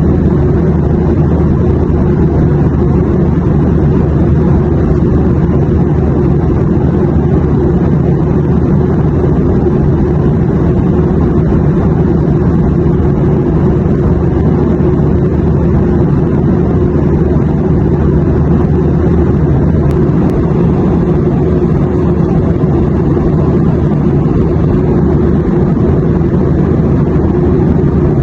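Steady drone of an airliner cabin in flight, a deep even rumble with no changes.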